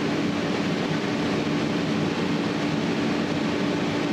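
Steady mechanical hum with a constant low tone and an even background rush that does not change.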